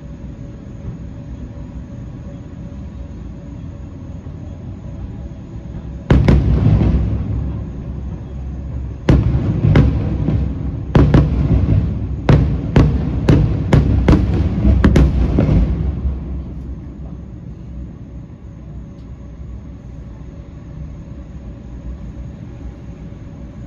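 Aerial fireworks shells bursting with loud, echoing bangs: a heavy burst about six seconds in, another about nine seconds in, then a quick volley of about eight bangs. It dies away into a low rumble after about sixteen seconds.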